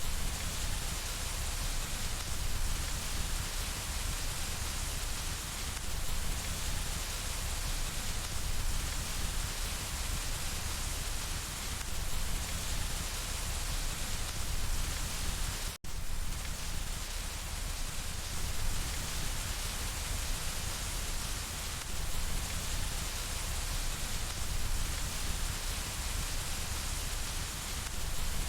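Steady rain pattering on window glass, an even, continuous wash of noise. It cuts out completely for a split second about halfway through.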